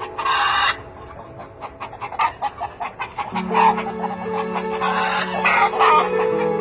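Chickens squawking and clucking in agitation, with a loud harsh squawk at the start and more squawks a few seconds in, over background music.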